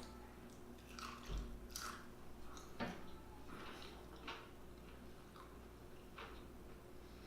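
A person chewing and biting food, with faint wet mouth smacks and clicks about once a second.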